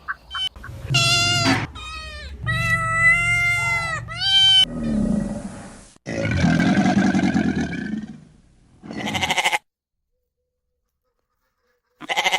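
Goats bleating in a series of quavering bleats, one of them lower and hoarser. After a silent gap of about two seconds near the end comes one more short bleat.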